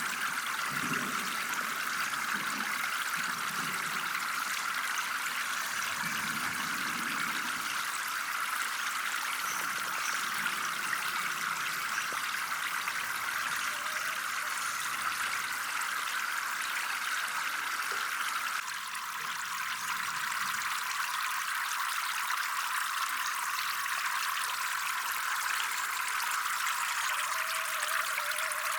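Water trickling and running steadily, like a small flow of water into a fish pond.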